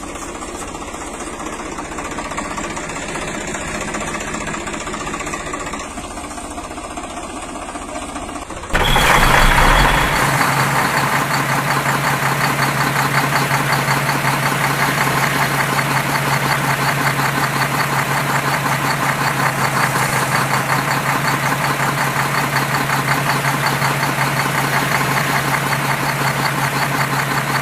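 An engine running with a fast knocking beat. About nine seconds in it cuts abruptly to a louder, steadier engine sound with a constant low hum.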